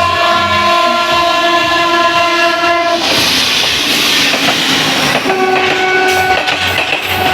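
Train horn sounding a long multi-tone blast of about three seconds, then a shorter blast about two seconds later, over the rushing noise and wheel clatter of the passing train.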